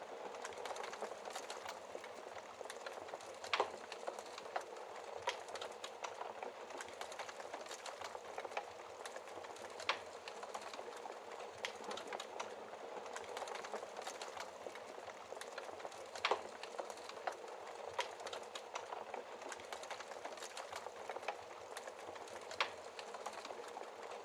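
Wood fire in a fireplace crackling steadily: a constant hiss of burning logs with frequent small pops and a few louder snaps, about 3.5, 10 and 16 seconds in.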